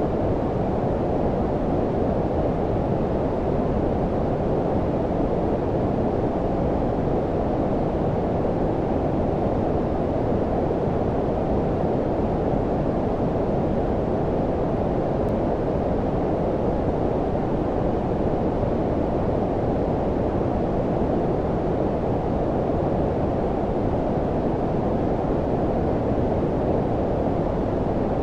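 Steady low-frequency noise, a deep, warm rumble like brown noise, with most of its energy below about 1 kHz and little hiss above. It holds an even level throughout.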